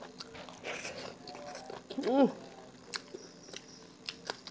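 Close-up chewing and lip-smacking of a person eating by hand, with scattered short clicks throughout. About two seconds in, a brief hum rises and falls in pitch.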